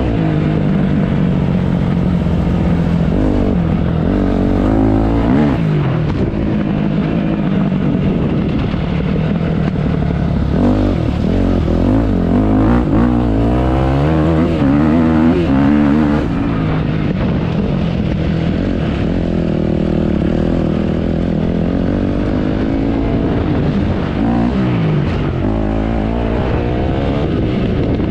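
Motocross dirt bike engine revving up and down as it rides, its pitch rising and falling again and again, busiest about halfway through.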